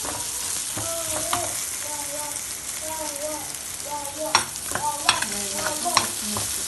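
Chopped onions sizzling in hot oil in a frying pan while a steel ladle stirs them, scraping against the pan. A few sharp knocks of the ladle on the pan come between about four and six seconds in.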